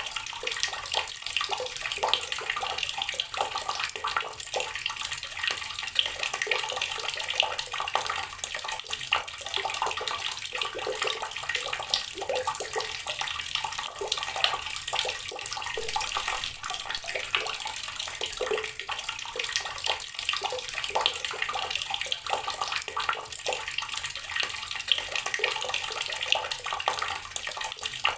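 Water running from a tap and splashing onto rocks, a steady stream with constant small spatters.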